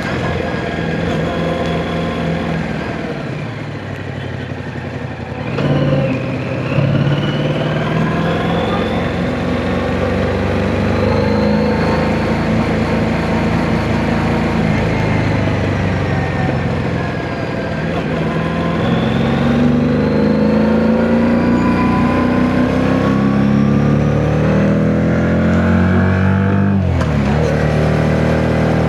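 Yamaha MT-07's 689 cc parallel-twin engine pulling under way, its pitch climbing and falling with the throttle through the gears. The pitch dips sharply near the end, then climbs again. Wind noise on the microphone.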